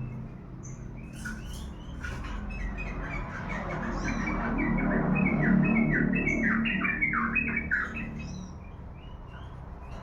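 Small pet songbird singing: scattered high chirps, then a rapid run of short falling notes through the middle, fading out near the end. A low rumble swells underneath while it sings.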